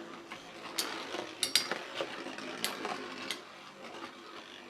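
Metal Fusion Beyblade tops spinning in a stadium with a faint steady whir, and about five sharp metallic clinks as they knock into each other and the stadium wall.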